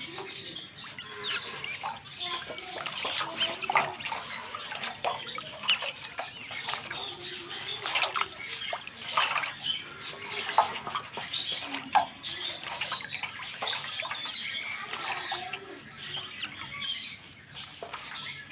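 Many small birds chirping and chattering at once, a dense and continuous mix of short, high squeaks and calls.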